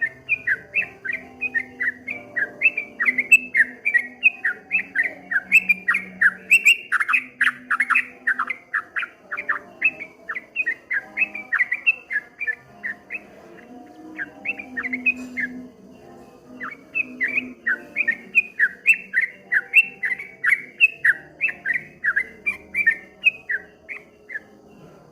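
Yellow-vented bulbul (trucukan) singing a fast rolling 'ropel' run of short chirping notes, several a second. The song breaks off for a couple of seconds a little past halfway, then resumes, over faint lower background tones.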